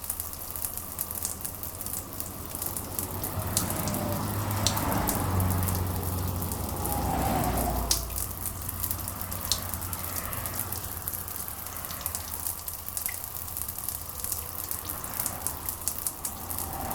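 Steady rain hiss with scattered sharp drips and ticks. A low rumble swells up a few seconds in and fades away again.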